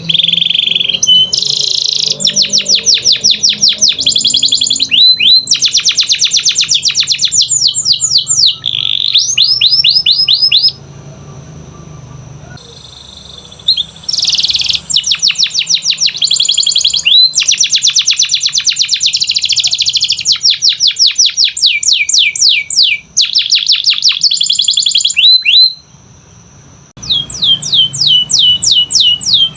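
Canary singing: long phrases of rapid trills, each made of many quick repeated high notes, broken by short pauses about eleven seconds in and again near the end.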